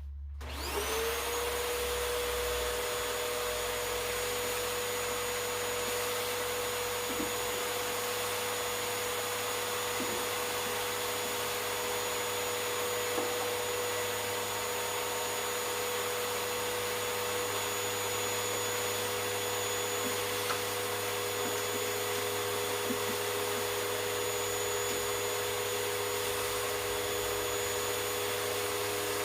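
Vacuum cleaner switched on, its motor whine rising as it spins up in the first second, then running steadily while it sucks dust out of the record player, with a few faint knocks of the nozzle.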